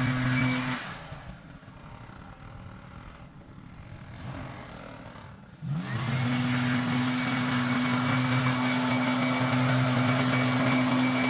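Engine running steadily at high speed. About a second in it drops away, then near six seconds it revs sharply back up and holds a steady high note.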